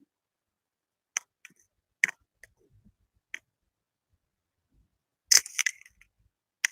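Ear-cleaning tools working close to the microphone: a few sharp, separate clicks, then a short burst of scratchy scraping about five seconds in, and one sharp click near the end.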